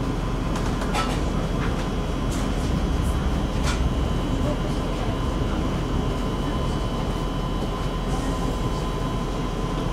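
Czech Railways class 471 CityElefant double-deck electric train running along the line, heard from inside the carriage: a steady rumble of wheels on rails with a thin steady whine, and a few light clicks in the first few seconds.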